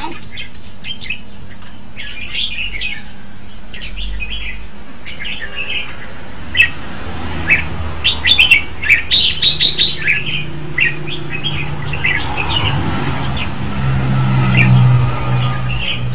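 Red-whiskered bulbul singing: short bright chirps and quick phrases, busiest about eight to ten seconds in. A low steady hum runs underneath in the second half.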